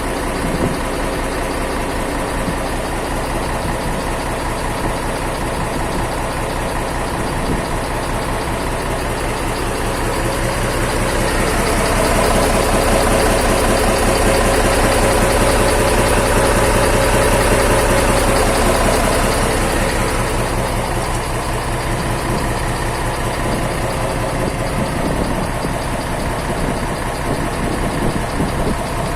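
Isuzu 12PB1 V12 diesel engine running steadily just after a major overhaul, burning off old oil. About twelve seconds in it picks up and runs louder for some eight seconds, then settles back to its earlier speed.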